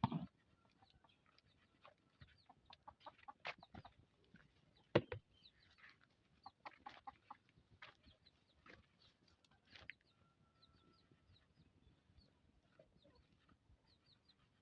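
Chickens clucking and peeping faintly, among scattered clicks and knocks, the loudest knock about five seconds in.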